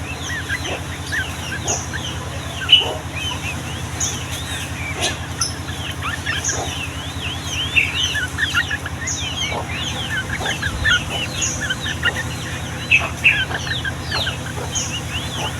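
Sooty-headed bulbuls (trucukan) singing a dense, fast run of short chirping notes that overlap one another, over a steady low hum.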